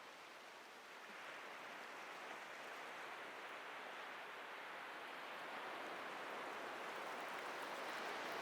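Atlantic surf breaking and washing up a beach: a steady rush of waves that swells slowly louder from about a second in.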